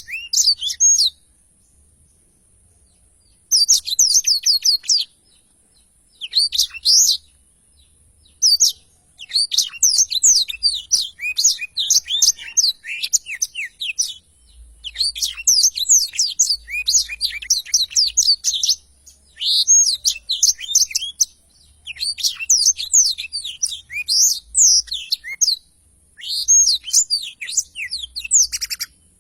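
Blackthroat (black-throated canary) singing: long rolling phrases of rapid, high, twittering notes, several seconds long, broken by short pauses. A faint steady high hiss lies under the song.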